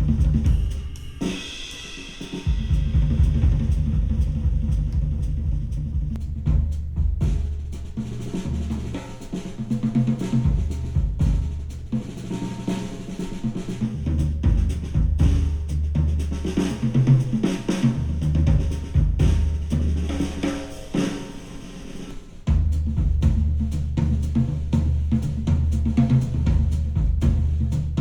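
Instrumental track with a full drum kit and heavy bass, played back through a KEF wireless active speaker and picked up by microphone. The beat and bass drop out briefly near the start and again about three-quarters through, then come back louder.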